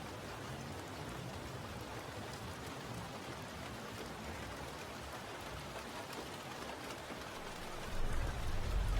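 Steady rain falling, an even hiss of drops. A low rumble swells up near the end.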